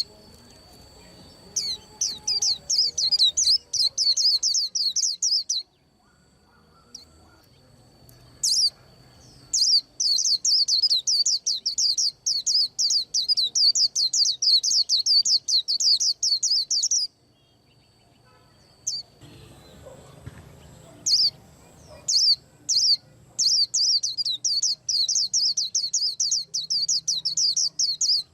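White-eye singing: three long runs of rapid, high twittering notes, each several seconds long, with a few single chirps in the gaps between them.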